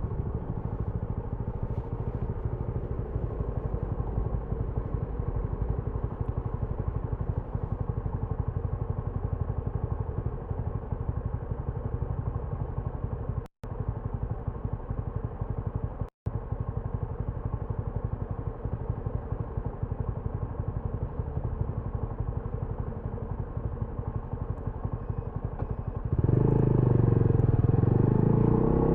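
TVS Apache RTR 200 4V's single-cylinder engine running steadily at low revs, heard with its exhaust note. The sound cuts out briefly twice in the middle, and near the end it turns much louder, the pitch rising and falling as the bike is revved and pulls away.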